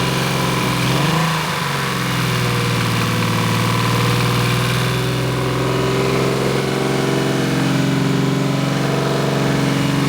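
Turbocharged Infiniti G35's 3.5-litre VQ35 V6 idling steadily just after its first start on a new big-turbo setup, the revs settling with a small dip about a second in.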